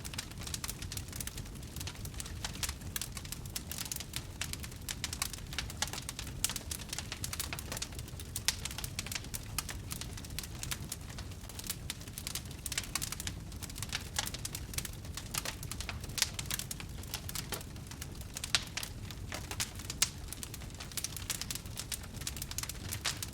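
Wood fire crackling, with frequent irregular sharp pops and a few louder snaps over a steady low rumble.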